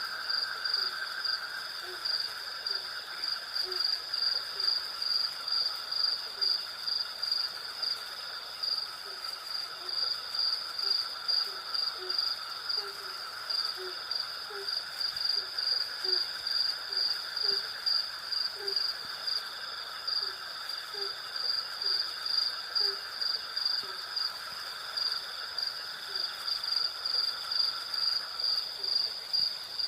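Night insect chorus: crickets chirping in a steady pulse of about two chirps a second over a continuous lower insect drone, with short low-pitched calls repeating through the middle of the stretch.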